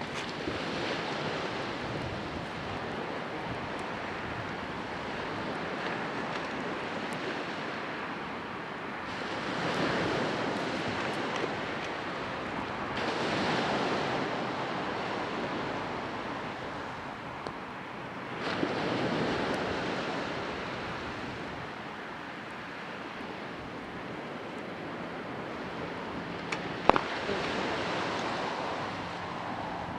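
Sea waves washing on the shore: a steady rush that swells as a wave breaks several times. There is a single sharp click near the end.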